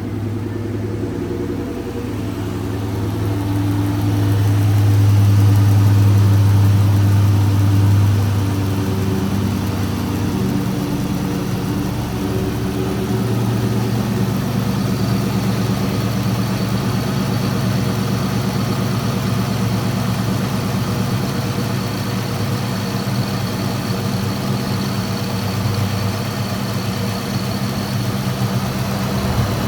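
2003 Ford Mustang SVT Cobra's supercharged 4.6-litre V8 idling just after a cold start. The idle swells louder a few seconds in, drops back about eight seconds in, then settles to a steady idle.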